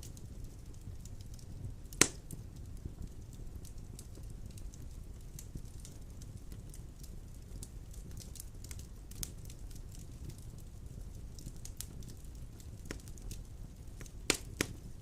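Large logs burning in a stone fireplace: a steady low rumble of flames with scattered crackles, one loud pop about two seconds in and two sharp pops close together near the end.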